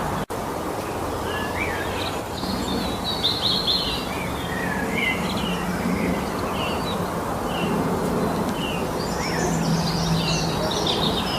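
Forest songbirds chirping and trilling, several calls overlapping, busiest near the middle and again near the end, over a steady background rush. The sound drops out for an instant just after the start.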